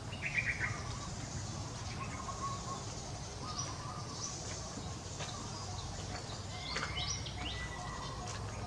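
Assorted birds chirping and calling, with a quick run of falling chirps just after the start and a held whistled note about seven seconds in, over a steady low background rumble.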